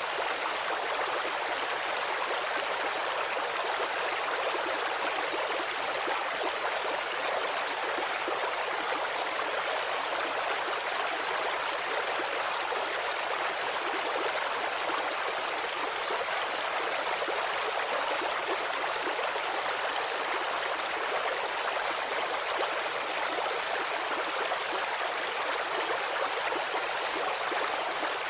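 Steady, even rush of water, with no crackles or separate drops standing out.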